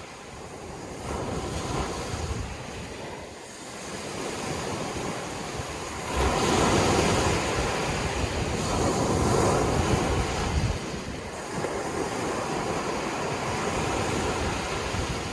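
Sea waves washing in, with a bigger wave surging up about six seconds in and easing off a few seconds later.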